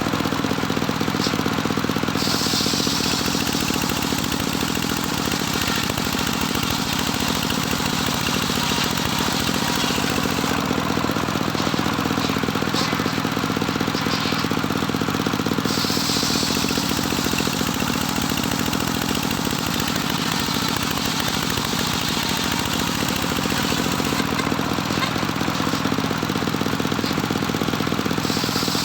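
Engine-driven homemade circular saw running steadily, the engine's drone constant throughout. A higher-pitched hiss from the saw swells and fades about three times.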